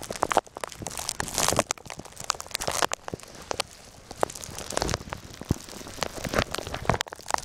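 Footsteps crunching through snow, an irregular run of crisp crunches.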